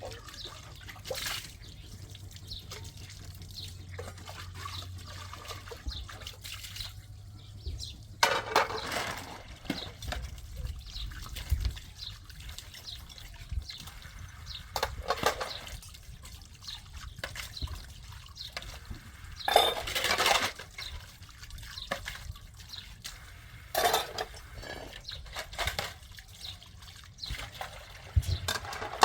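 Water trickling and dripping, with louder splashes or pours every few seconds.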